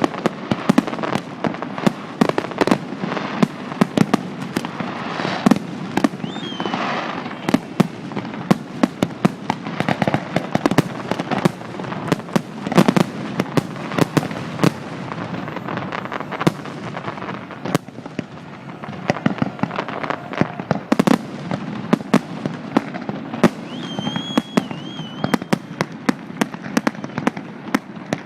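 Fireworks display: a dense, continuous run of shell bursts and crackling bangs, many in quick succession. Brief high whistles sound at about six seconds in and again near the end.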